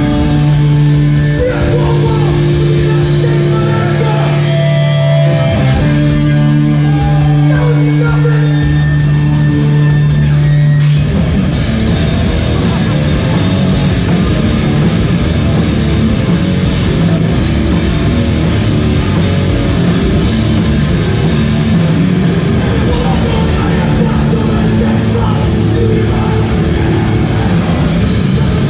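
Hardcore band playing live through a loud PA: held, distorted guitar chords ring for about the first ten seconds, then the full band comes in with a fast, dense drive to the end.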